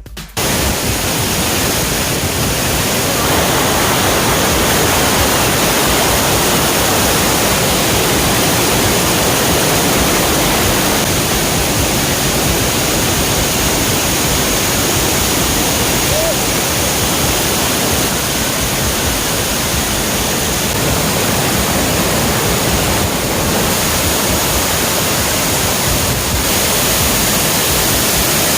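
Large waterfall swollen by monsoon rain: a loud, steady rush of falling water.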